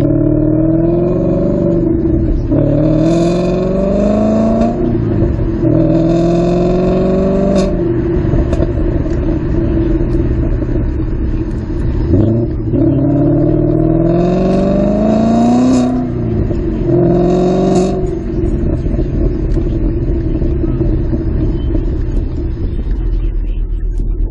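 2013 Mustang GT's 5.0L V8, breathing through long-tube headers, a catted X-pipe and the factory mufflers, accelerating hard. The exhaust note climbs in pitch and drops back at each gear change, twice through the gears, with a steadier drone between the pulls and after them.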